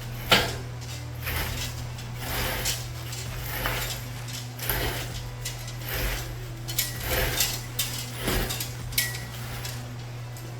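Irregular metallic clanks and rattles of heavy metal parts knocking together as an engine is hoisted out of a truck's engine bay, the sharpest clank about a third of a second in, over a steady low hum.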